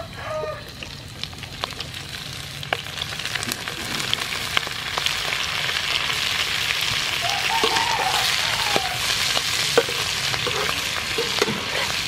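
Duck ovaries and unlaid egg yolks frying in hot oil in a wok, sizzling that grows stronger after a few seconds, with scattered clicks of a utensil stirring them.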